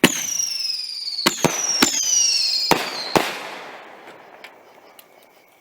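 Dragon Fireworks Whistling Buster ball shells firing: a sharp bang, then whistles that fall steadily in pitch for about three seconds, cut by several more sharp bangs, before the sound dies away.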